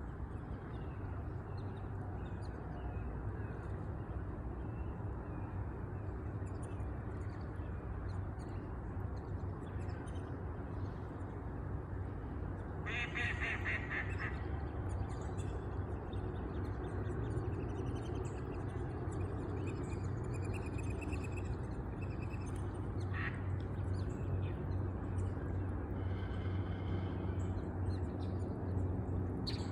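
A large water bird gives a rattling call of rapid pulsed notes lasting about a second and a half partway through, with a shorter call later. Faint small-bird chirps and a steady low rumble run underneath.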